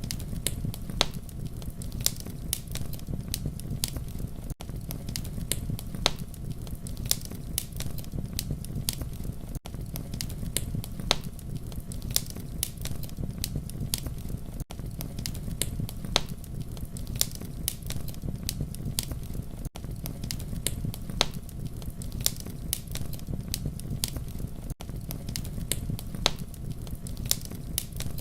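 Campfire crackling: many sharp pops and snaps over a steady low rumble of burning. It is a short loop that repeats about every five seconds, with a brief dropout at each seam.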